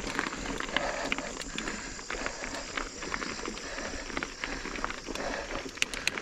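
Mountain bike pedalled slowly up a dirt trail climb: tyres crunching over dirt and small stones, with many scattered clicks and ticks from the bike.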